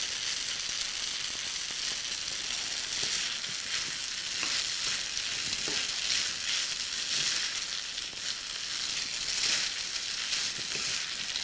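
Cooked pasta frying with garlic in olive oil in a pan, browning: a steady sizzle.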